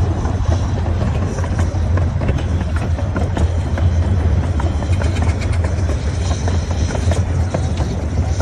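Miniature steam train running along its track, heard from an open car behind the tender: a steady low rumble with a dense rattle and clicking of the wheels and cars.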